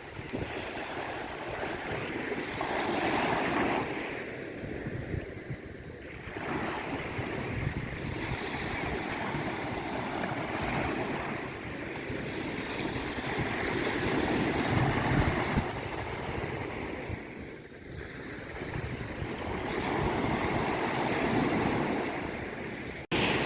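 Sea waves washing in, the surf noise swelling and easing every few seconds. Just before the end it breaks off for an instant and comes back louder.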